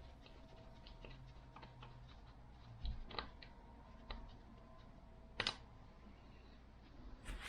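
Quiet hand work on motorcycle parts: scattered light clicks and taps, with a few sharper clicks and knocks about three, four and five and a half seconds in and again near the end.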